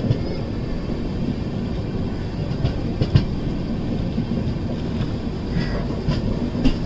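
Passenger train running along the track, heard from aboard: a steady low rumble of the coaches with a few sharp clacks from the wheels on the rails.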